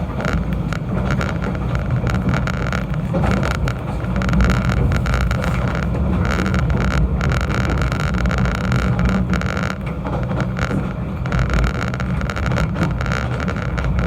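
Snowdon Mountain Railway train running, a steady deep rumble with rattling throughout.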